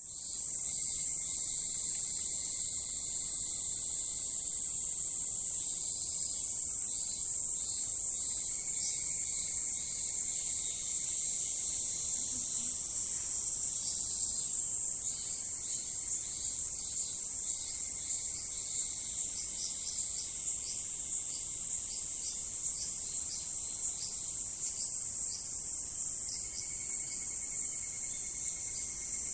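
Insects trilling in a continuous high-pitched chorus, with short chirps repeating through it and a fainter, lower steady trill that comes and goes.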